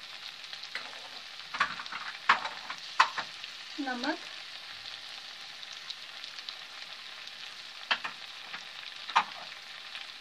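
Mixed vegetables sizzling steadily in hot oil in a steel kadhai, with a few sharp clicks and knocks in the first few seconds and again near the end.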